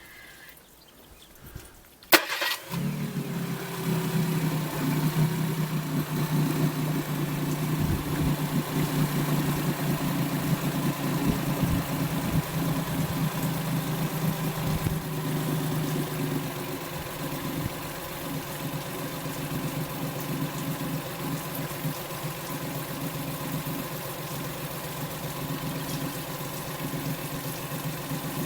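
Johnson 40 hp four-stroke EFI outboard motor (Suzuki-built) starting: a sharp click, the engine catches within about half a second, then runs steadily, easing a little lower about halfway through.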